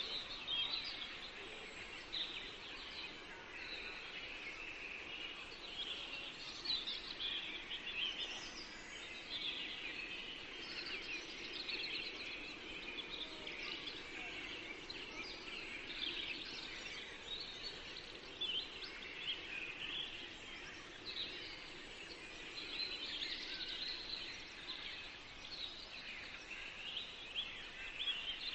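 Several songbirds singing at once in a forest, a continuous chorus of short chirps and trills over a faint steady background hiss.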